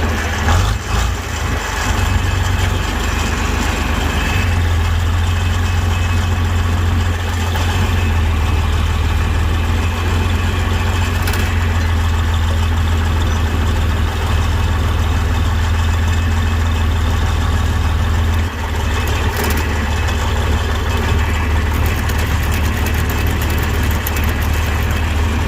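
John Deere 4020 tractor engine running steadily, with a short dip in level about three-quarters of the way through.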